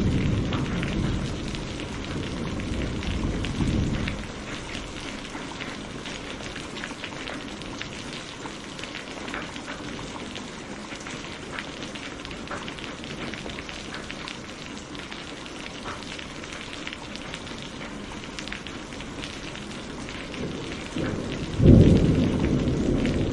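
Steady rain with thunder: a deep rumble dies away in the first four seconds, leaving the rain's even hiss, and a loud clap of thunder breaks in near the end.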